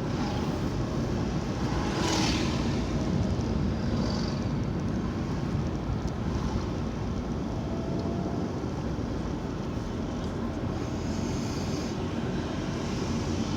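Car running along the road, heard from inside the cabin: a steady drone of engine and tyre noise.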